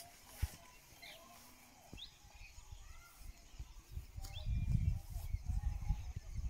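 Quiet outdoor ambience with a few short, rising bird chirps. About two-thirds of the way in, a low, uneven rumble comes in and becomes the loudest sound.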